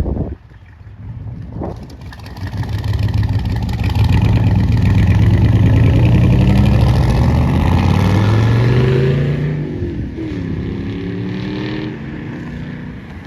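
Car engine accelerating hard. Its pitch climbs steadily for several seconds at full loudness, then drops and climbs again about ten seconds in as it fades.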